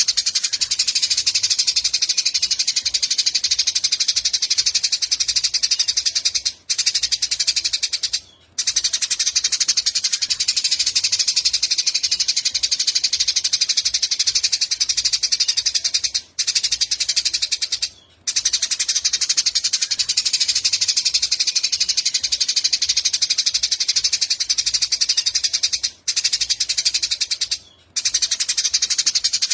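Eurasian tree sparrows chirping in a dense, fast, unbroken chatter that drops out briefly a few times.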